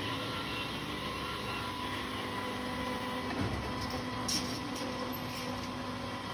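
Automatic copper tube end forming and flattening machine running: a steady mechanical hum, with a soft knock about halfway through and a few light clicks shortly after.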